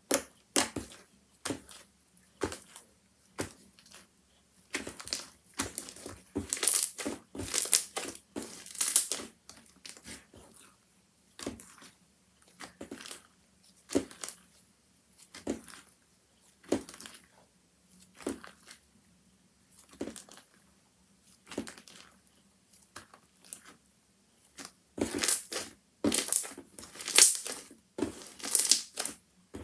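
Homemade slime being squeezed and pressed by hand, making short crackling, squishing bursts about once a second, with busier runs of them around seven seconds in and near the end.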